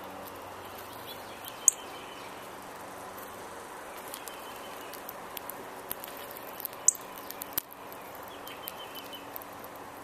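Wild birds singing in the background, with faint high warbled phrases now and then. Two short, sharp, very high notes stand out, about five seconds apart, along with a few light clicks.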